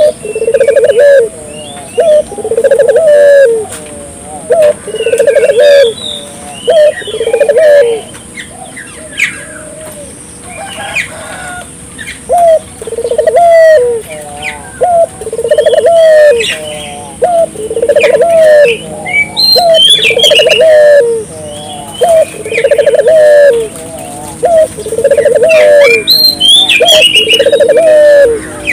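Barbary doves (puter) cooing loudly and repeatedly, one rolling coo phrase after another about every second, with a break of a few seconds about a third of the way in. Smaller birds chirp higher up over the cooing.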